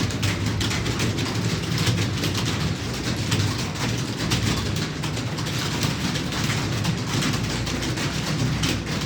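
Fast typing on computer keyboards: a dense, irregular stream of key clicks over a steady low hum.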